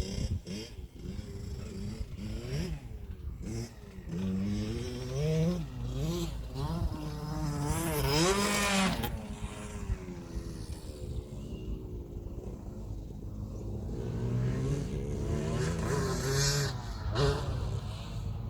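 KTM 65 SX motocross bike's small two-stroke engine revving hard and backing off again and again. It is at its highest and loudest about eight to nine seconds in.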